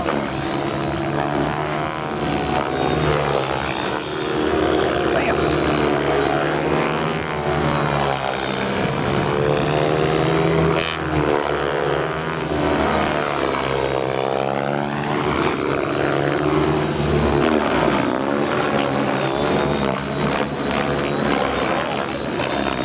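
Radio-controlled 3D helicopter flying aerobatics: a steady rotor and motor whine whose pitch keeps rising and falling as the model is thrown around the sky.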